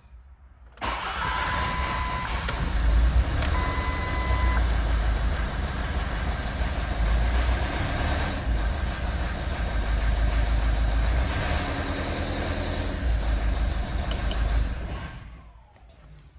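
Ford C-Max engine starting and running steadily for about fourteen seconds, then shut off, now running with a replaced fuel injector that cured its no-start fault (code P1213). Two short beeps sound in the first few seconds.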